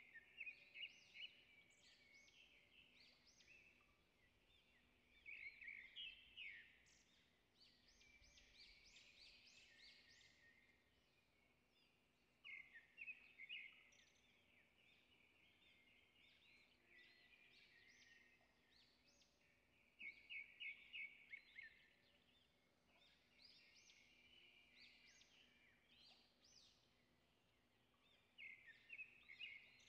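Faint bird song in short bouts of quick, high notes, repeated about every seven seconds over near silence.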